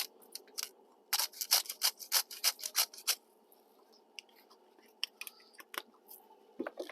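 Salt grinder being twisted over a pot of water: a quick run of about ten crunchy clicks, roughly five a second, followed by a few faint scattered clicks.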